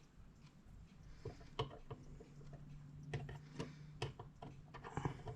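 Faint, irregular clicks and light taps of small clock parts being handled as wheels are fitted into a clock movement. A low steady hum comes in about two seconds in.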